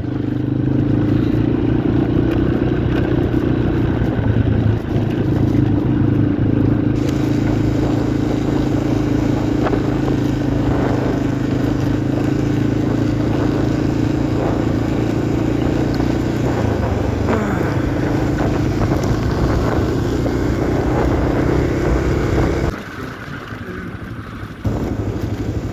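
Single-cylinder four-stroke engine of a 1990 Yamaha XT350 dual-sport motorcycle running at a steady speed while riding. Near the end the engine sound drops away sharply.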